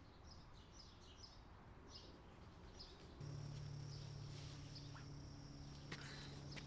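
Faint outdoor ambience with a few soft bird chirps, and a low steady hum that comes in about three seconds in.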